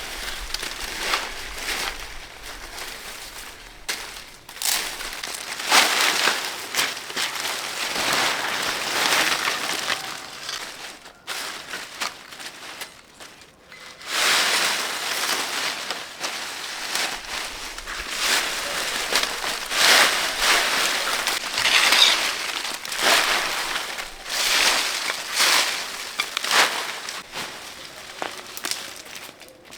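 Irregular rustling and crunching in uneven bursts, like dry material or plant matter being handled and crushed, with a lull in the middle.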